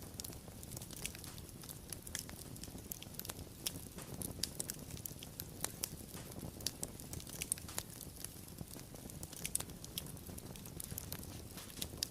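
Wood fire crackling: irregular sharp pops and snaps, several a second, over a low steady rumble of the flames.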